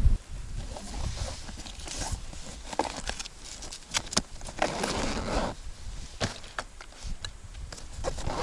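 Irregular clicks, taps and rustling.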